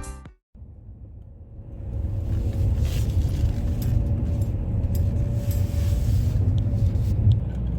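Steady low rumble of an airliner cabin, coming up about a second and a half in and holding level.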